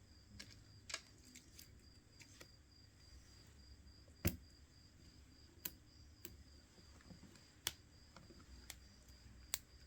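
Sparse small clicks and taps from handling phone parts and tools during a repair, about a dozen over a quiet background, the loudest about four seconds in.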